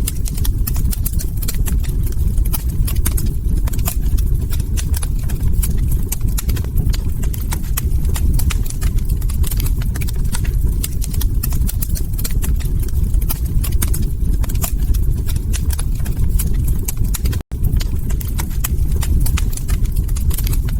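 Log fire burning in a fireplace, crackling with many sharp pops and snaps over a steady low rumble of the flames. The sound cuts out for an instant about three-quarters of the way through.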